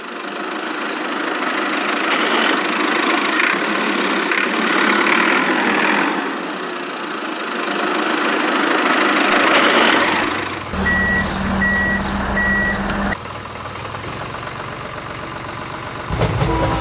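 A steady rushing noise for about ten seconds, then three short, evenly spaced high beeps over a low hum, like a vehicle's reversing alarm, followed by a quieter hiss.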